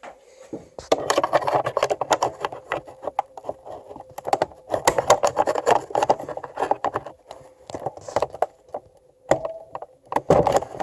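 Handling noise from a coffee machine's plastic brew unit being worked with small hand tools: irregular clicks, scrapes and rattles of plastic and metal, starting about a second in. A faint steady hum runs underneath.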